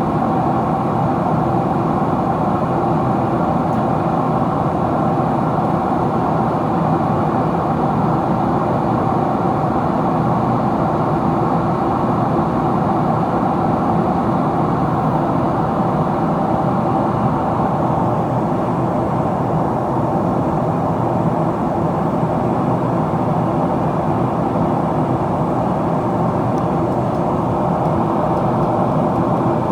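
Steady cabin noise inside a Boeing 777-300ER descending: a continuous rush of airflow mixed with the hum of its GE90 engines, heard from a window seat.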